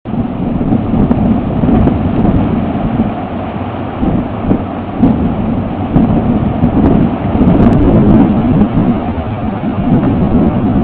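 Strong gusty wind buffeting an outdoor camera microphone: a loud, low rushing rumble that swells and eases with each gust.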